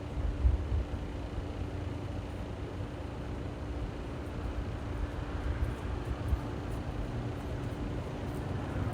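Road traffic on a nearby street, a steady rumble of passing cars with a constant low hum under it and a brief louder swell about half a second in.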